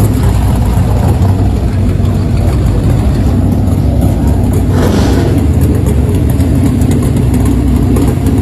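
Big Mopar V8 engine idling steadily, with a short rush of noise about five seconds in.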